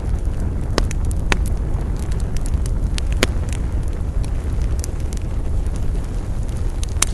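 Wood campfire crackling. Irregular sharp pops and snaps sound over a steady low rumble; the loudest pops come about three seconds in and near the end.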